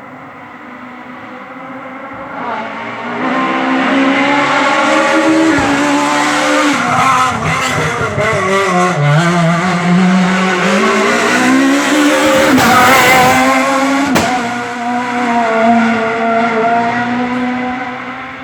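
Peugeot 306 Maxi rally car's four-cylinder engine approaching at high revs, echoing. Its pitch drops as it brakes and shifts down for a hairpin about halfway through. It then climbs again through the gears as it accelerates away and fades near the end.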